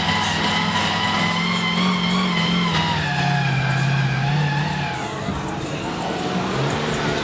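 Mud truck engine running hard at high revs, its pitch easing down in two steps, about three and five seconds in.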